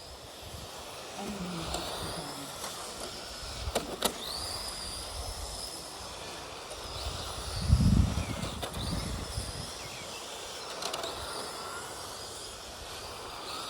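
Electric motors of Tamiya radio-controlled race trucks whining, rising and falling in pitch as the trucks speed up and slow down. Two sharp clicks about four seconds in, and a low thump a little past the middle.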